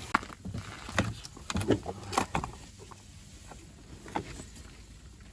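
Light clicks and knocks of small gear being handled, several close together in the first two and a half seconds and one more about four seconds in, over a faint low wind rumble.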